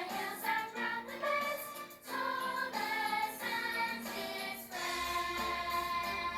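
A choir singing a song over instrumental backing, with one long held note near the end.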